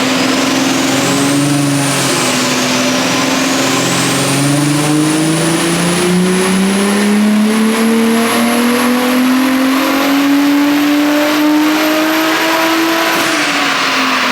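Turbocharged VR6 engine of a VW Golf R32 making a full-power pull on a chassis dyno. After a few seconds of steady running, the engine note climbs in one long steady rise for about eight seconds, with a high whine rising alongside, then drops sharply as the throttle is lifted near the end.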